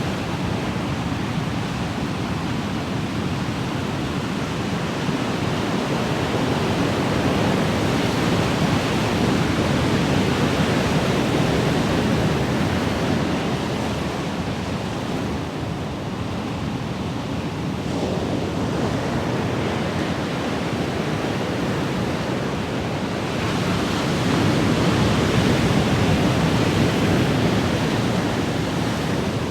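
Ocean waves washing and breaking in a continuous rush, swelling and easing slowly, with the surges loudest about a third of the way in and again near the end.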